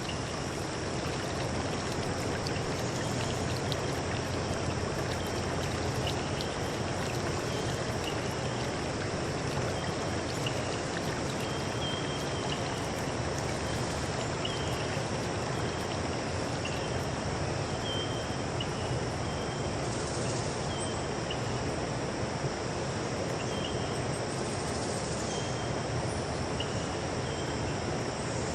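Steady rushing water, with insects trilling in a high, continuous tone and short chirps repeating every second or two.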